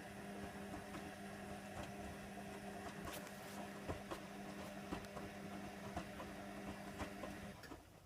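Hoover Nextra HNWL7146 washer dryer's drum motor turning the drum during a wash, a steady hum with scattered clicks, stopping shortly before the end.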